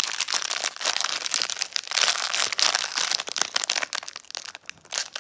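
Crinkly packaging from a Sonny Angel blind box being handled and crumpled by hand: dense crackling that thins out to scattered crinkles in the last second or so.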